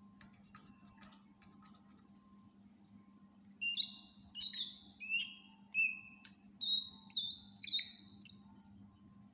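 Cucak ijo (green leafbird) singing: a run of about nine loud, clear whistled notes, several of them slurring down in pitch, grouped in quick phrases. The song begins about three and a half seconds in, over a faint low hum.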